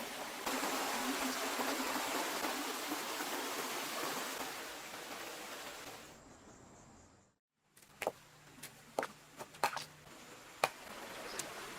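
A steady rush of water that fades away about six seconds in. After a moment of silence come a handful of sharp knocks and clicks over quieter background.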